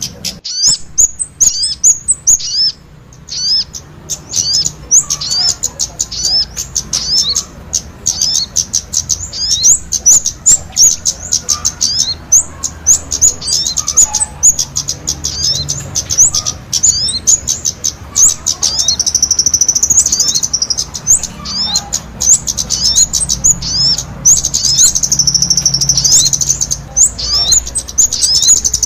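An orange-headed thrush (kemade) and a sogon singing energetically together: a dense stream of rapid high chirps and quick whistled sweeps, with two longer trilling passages about two-thirds and five-sixths of the way through.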